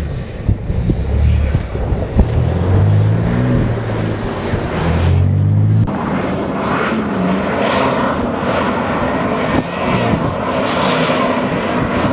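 BMW car engine revving hard while drifting on snow, its pitch rising and dropping in steps. About six seconds in it cuts to another BMW's engine running under load, mixed with a hiss of sprayed snow.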